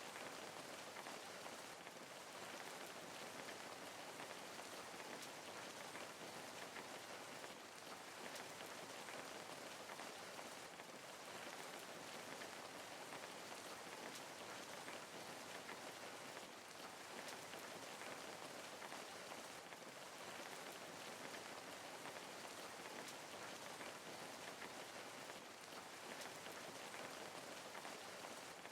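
Steady rain falling, an even hiss of many small drops on a surface with no thunder or other events.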